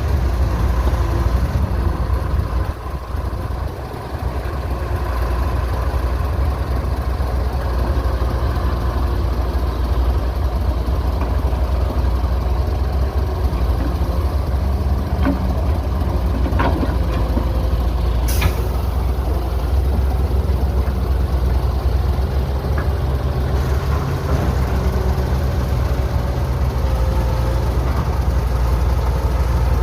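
Heavy diesel construction machinery running steadily with a deep low drone. A few faint clicks sound through it, and one short sharp hiss comes a little past the middle.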